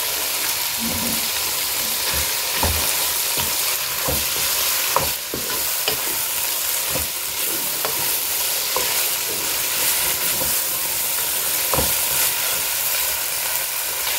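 Chopped tomatoes and vegetables sizzling in oil in a pot while a wooden spatula stirs them, with scattered scrapes and light knocks of the spatula against the pan. The tomatoes are being sautéed to soften.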